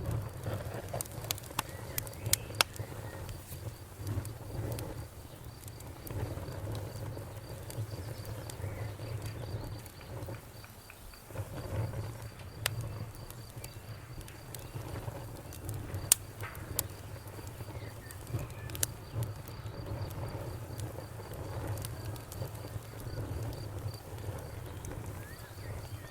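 Campfire crackling, with sharp pops scattered through, over a steady pulsing trill of crickets and a low fluttering rumble.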